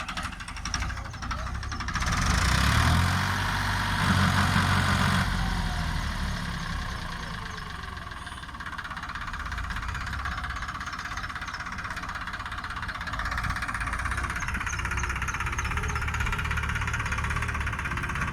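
Tractor diesel engine running, louder and revved up from about two to five seconds in, then settling to a steady run.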